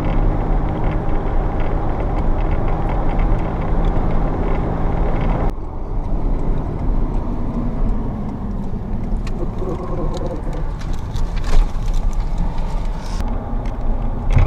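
A vehicle engine running steadily, then after an abrupt change about five and a half seconds in, an engine sound whose pitch slowly rises and falls.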